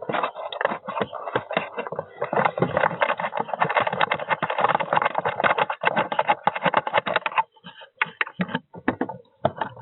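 Close handling of a plastic bird feeder: a dense run of clicking and rattling for about seven seconds, then a few scattered clicks.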